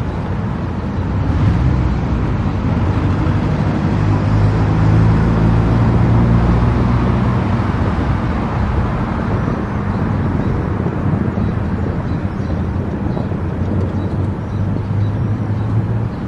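Steady road noise of a car cruising on an expressway: tyre rumble and a low engine drone, swelling slightly a few seconds in.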